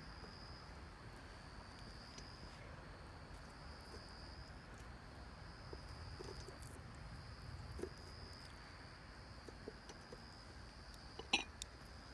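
Faint insect trilling: a steady high-pitched trill in repeated phrases about two seconds long with short breaks between them. A few sharp clicks come near the end.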